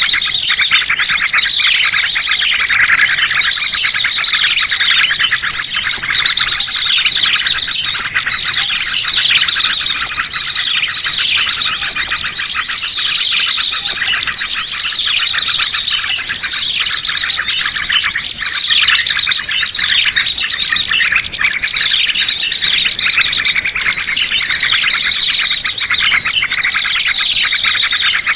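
Dense, continuous chorus of many small birds chirping, twittering and whistling over one another without a break: a 'master pikat' bird-lure recording of the tangled 'benang ruwet' kind, used to draw wild birds to a trap.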